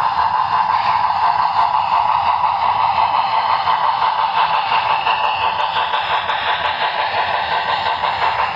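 A train running, a steady unbroken rolling noise of wheels on rail.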